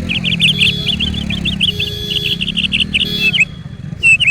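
A songbird chirping in rapid runs of short, high notes, about ten a second, with a brief pause near the end. A low drone, slowly rising and falling in pitch, runs underneath.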